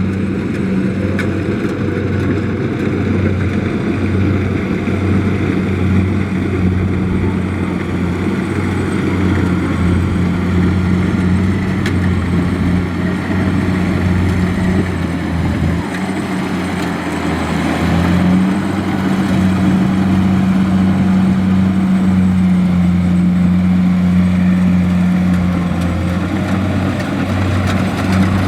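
Kubota DC-70 combine harvester's diesel engine running under load with a steady, loud drone. It dips briefly around sixteen seconds in, then picks up again a little higher about two seconds later.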